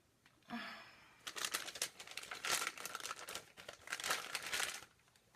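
Plastic piping bag crinkling and rustling as it is handled: a dense run of crackles starting about a second in and stopping near the end.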